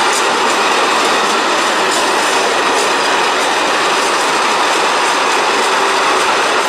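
Freight train of hooded wagons rolling past: a steady noise of steel wheels on rail, with occasional faint clicks as the wheels pass over rail joints.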